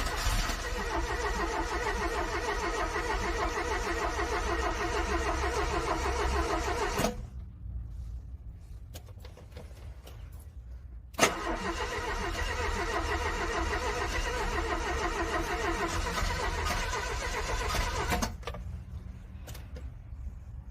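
A cold car engine cranking on its starter without catching, in two attempts of about seven seconds each with a pause of about four seconds between. A sharp click opens the second attempt, and each burst of cranking stops abruptly.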